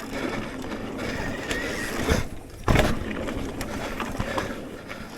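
Mountain bike riding over a trail: tyre rumble with rattling and clicking from the bike, and one loud clunk a little under three seconds in.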